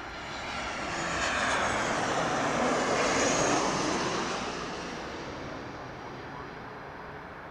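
Jet airliner's engines passing close by: the noise swells to a peak about three seconds in and then fades, its pitch falling as the aircraft goes past.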